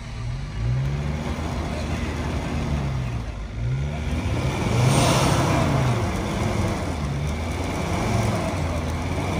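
Off-road 4x4's engine revving up and down again and again, about five blips over a steady low running note, as it is driven through a hard section of an off-road course. A rush of noise comes in about halfway.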